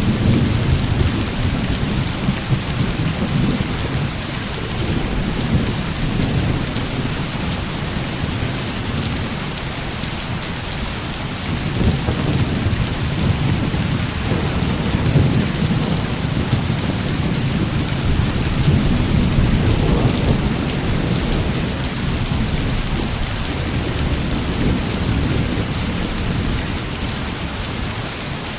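Heavy rain falling steadily, with low thunder rumbling that swells and fades several times.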